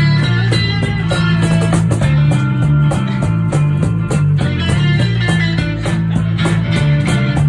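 A rock band playing live in an acoustic set, with guitars strumming and picking in a steady rhythm over a strong bass line.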